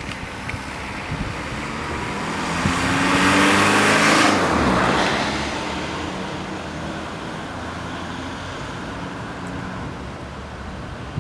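A Volkswagen Golf Mk4 V5 with a modified exhaust drives past. Its five-cylinder engine note builds to a peak about four seconds in, then drops in pitch and fades as the car moves away.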